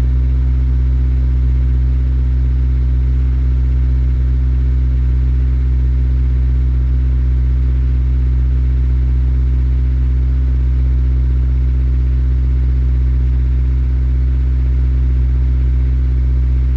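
Honda S2000's inline-four idling steadily through a Tanabe Medallion Concept G exhaust after a cold start, with an even, unchanging drone.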